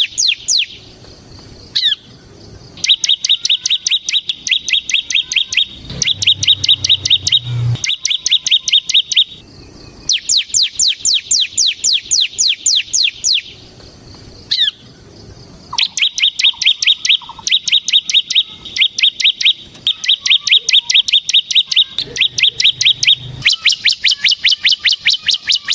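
Bar-winged prinia (ciblek semi) singing loud, fast trills of about ten sharp notes a second, in bursts of two to four seconds with short pauses. Some bursts are quick downward-sweeping notes and others a rapid rattle on one high note.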